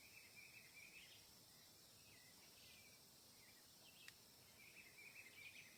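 Near silence of forest ambience: a faint steady insect hum with scattered faint short chirps of birds or insects, and a faint click about four seconds in.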